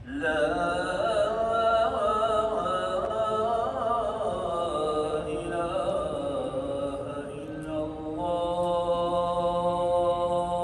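A chanted vocal melody with wavering, ornamented pitch that settles into a long held note about eight seconds in.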